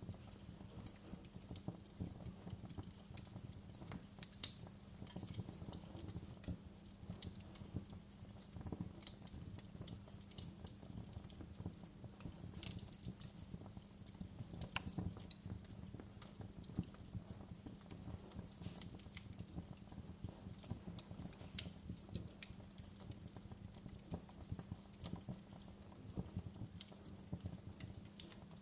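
Wood fire crackling in a fireplace: irregular sharp pops and snaps, a few louder than the rest, over a steady low hum.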